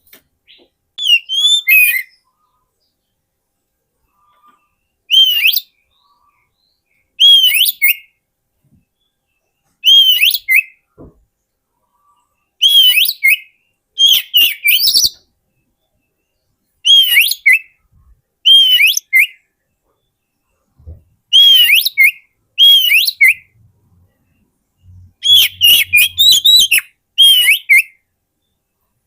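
Oriental magpie-robin (kacer) song: short phrases of clear, quick up-and-down whistled notes, repeated about every two seconds with silent gaps between. A recording of the kind used as a lure call for wild magpie-robins.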